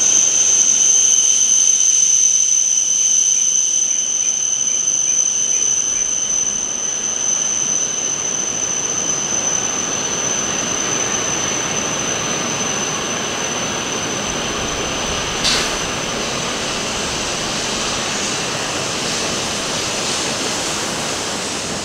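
Shinkansen train pulling out of the platform: a steady rushing noise with a high whine, slowly growing quieter. A single sharp click sounds about fifteen seconds in.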